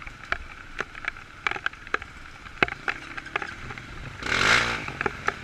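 Off-road motorcycle engine running low in the background, with one short rev about four seconds in, among scattered light clicks and knocks.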